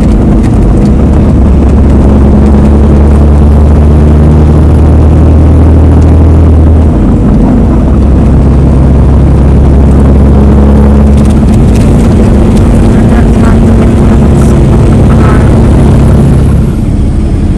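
Vehicle engine running steadily on the move, a loud low drone with road noise. Its pitch drops in steps three times.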